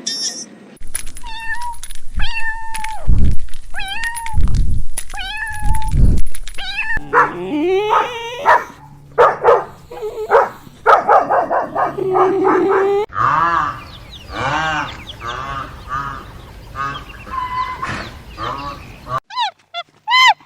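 A series of short animal calls, pitched and bending, in several separate runs that change character every few seconds.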